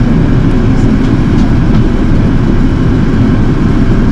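Airbus A380 cabin noise in flight: a loud, steady, low rumble of engines and rushing air.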